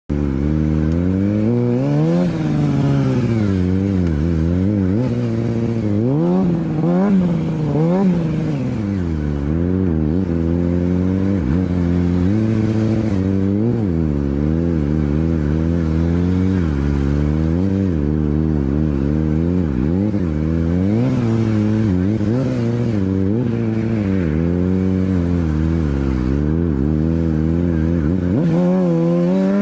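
Motorcycle engine revving over and over, its pitch rising and falling every second or two without a break.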